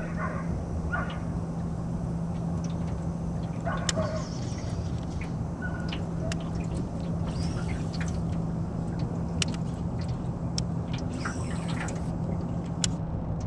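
Small boat motor running with a steady hum, with brief chirps and scattered clicks over it.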